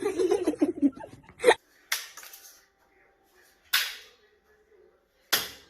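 A brief stretch of voice, then three sharp cracks, each fading quickly, spaced about a second and a half to two seconds apart.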